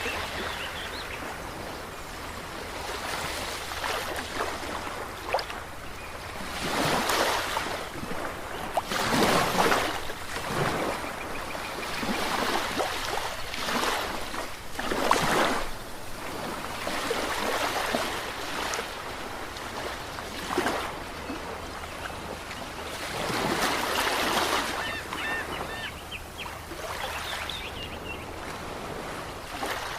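Ocean surf: waves breaking and washing in irregular surges over a steady rushing wash, with a few louder crashes spread through.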